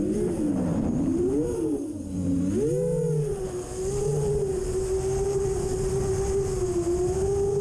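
iFlight XL7 7-inch FPV quadcopter's brushless motors whining. The pitch dips and rises several times over the first three seconds as the throttle changes, then holds steady.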